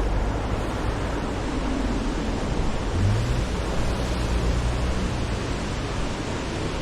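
Steady wind rush on the microphone over a low motorcycle engine drone, as when riding at speed; the engine note rises briefly about three seconds in.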